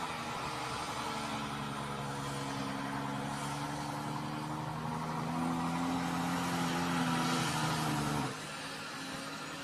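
Motor vehicle engine running steadily under load, its pitch climbing a little midway, then dropping suddenly near the end.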